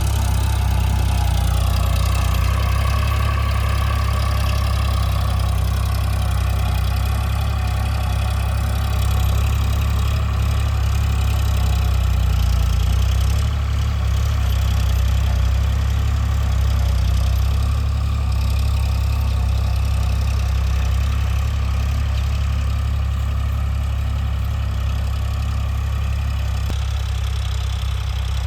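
Eicher 551 4x4 tractor's diesel engine running steadily at a low, even speed, like an idle.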